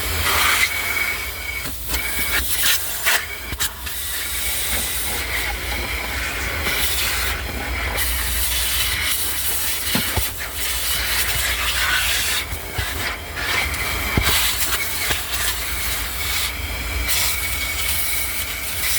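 Car wash vacuum hose sucking steadily, a loud hiss with a faint high whistle in it, its note shifting and briefly dropping again and again as the nozzle is worked over the car's interior.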